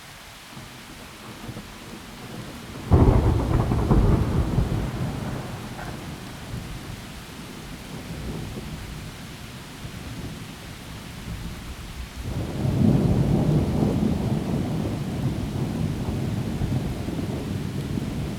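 Thunderstorm with steady rain: a sudden thunderclap about three seconds in that rumbles away over several seconds, then a second long rolling rumble of thunder starting about twelve seconds in.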